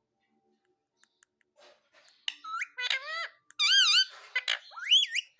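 Pet parrot making a run of loud, squeaky, warbling calls with quickly wavering and gliding pitch, starting about two seconds in.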